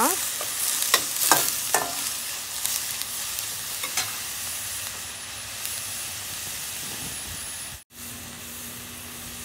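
Onions and green chillies sizzling in hot oil in a stainless steel kadai. A metal spatula scrapes and clicks against the pan in the first two seconds, then the steady sizzle continues as the onions fry. There is a momentary break near the end.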